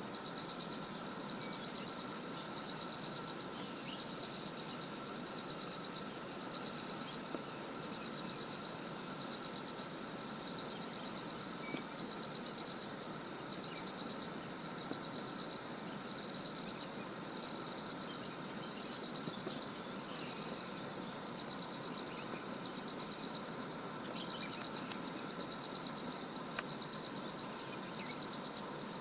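Chorus of jungle insects trilling without a break: a high trill swells about once a second, with a higher chirp repeating about twice a second above it.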